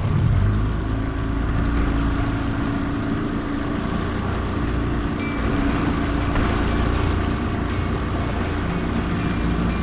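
Motorboat engine running steadily at full throttle, pulling a tube.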